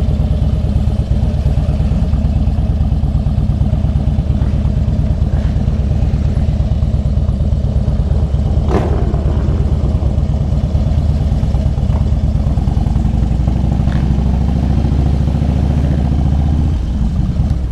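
Motorcycle engine running at low speed with a steady low pulse as the bike is maneuvered on gravel to park. There is a brief knock about halfway through, and the engine sound falls away near the end.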